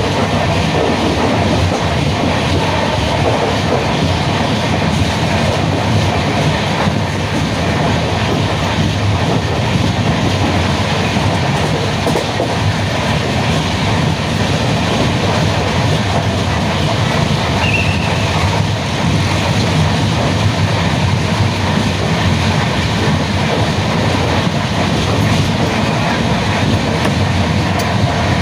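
Passenger train running at speed, heard from inside a carriage at an open window or door: a steady, loud rumble and rattle of the coach on the track.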